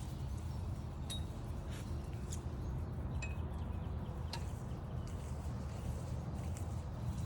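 Steps of a walk on a trail: scattered light clicks and taps over a steady low rumble, with a few brief, faint bird chirps.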